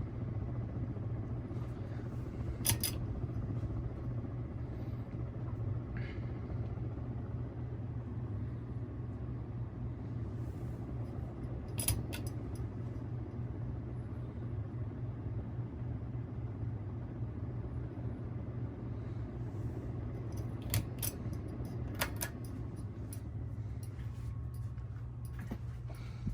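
Ceiling fan motor running with a steady low hum, with a few sharp clicks now and then.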